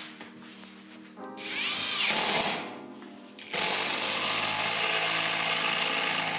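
Parkside Performance PDSSAP 20-Li A1 cordless impact driver run with the trigger. Its motor speeds up and winds down once, then from about three and a half seconds in runs steadily at full speed.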